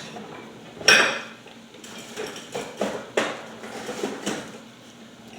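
Kitchen tongs clanking and clicking: one loud clank about a second in, then several lighter clicks. The tongs' lock no longer catches.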